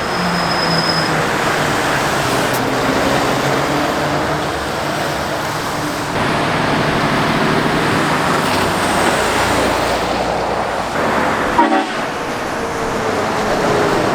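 Heavy goods vehicles and other traffic passing on a busy trunk road, a continuous mix of diesel engine drone and tyre noise, with a brief buffet of noise near the end.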